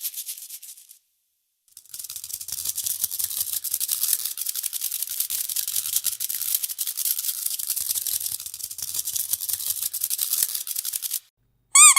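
A rattle shaken fast in an even rhythm, fading out about a second in, then starting again and running until shortly before the end. Near the end comes one short, high squeak that rises and falls.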